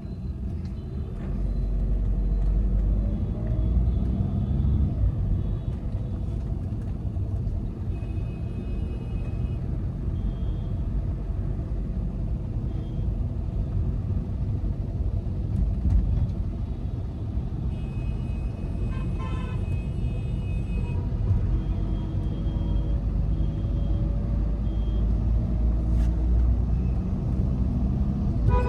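Volkswagen Vento 1.5 TDI diesel car on the move: a steady low rumble of engine and road noise. Two spells of high beeping tones cut in, about a third of the way in and again past halfway, with short repeated tones in between.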